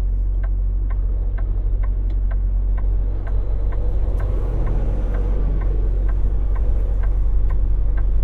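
Inside a semi truck's cab: the diesel engine running low and steady, with the turn signal clicking evenly a little over twice a second.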